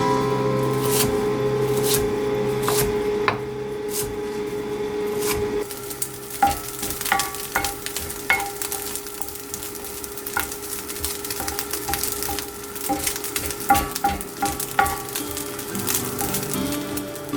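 Food sizzling in a pan while being stirred, with a utensil knocking against the pan in many short, uneven clicks from about six seconds in.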